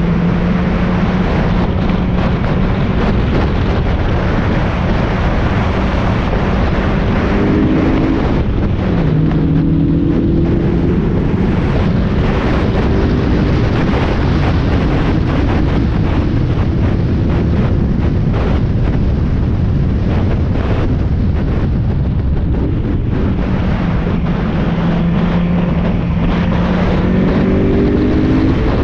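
Mazda Miata race car's inline-four engine running hard on track, heard onboard over heavy wind and road noise. Its pitch climbs and then drops sharply about eight seconds in and again near the end.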